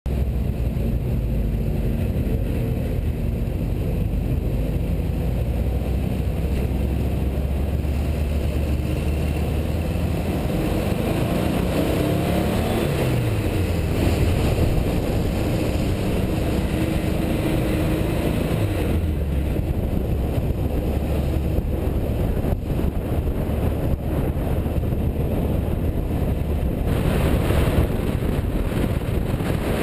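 Car engine running steadily under noise, its pitch falling about halfway through and again a few seconds later.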